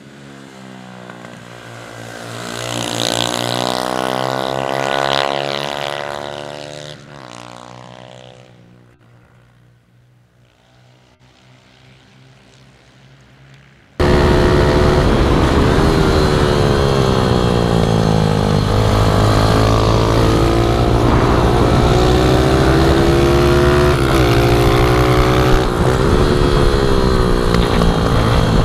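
A small pit bike engine approaches and passes, its pitch sliding down as it goes by, then fades away. About halfway through, a sudden cut brings a loud, close pit bike engine revving up and down through the gears under wind noise, as heard from on board.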